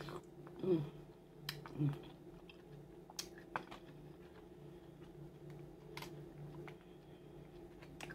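Close-miked chewing and mouth sounds of a person eating seafood, with two louder mouth sounds near the start. Scattered small clicks come as king crab legs are handled. A steady low hum runs underneath.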